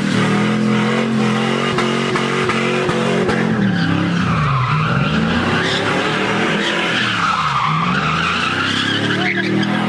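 Car engine held at high revs with tyres squealing and skidding. The engine note sinks and climbs back twice, about halfway through and again near the end.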